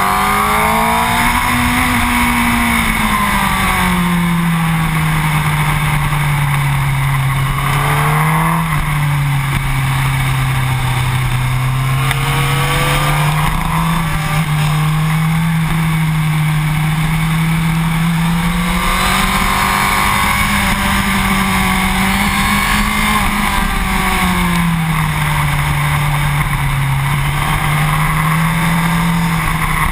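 Yamaha R1 motorcycle's inline-four engine running at speed on track, its note rising and falling slowly with the throttle through corners, over a steady rush of wind on the microphone.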